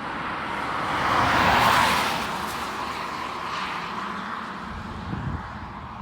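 Jet airliner passing by, its noise swelling to a peak about a second and a half in, then slowly fading.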